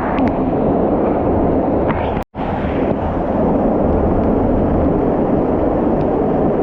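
Steady, loud rush of a waterfall pouring down, cut off briefly about two seconds in.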